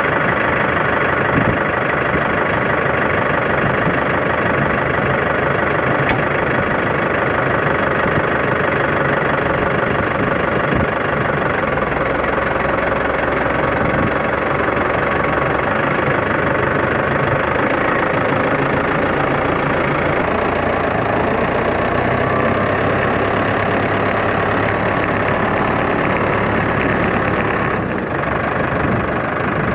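Tractor engine running steadily, loud and close, easing slightly near the end.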